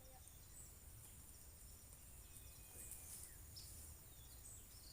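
Faint forest ambience: a steady high drone of crickets, with a few short bird chirps scattered through it.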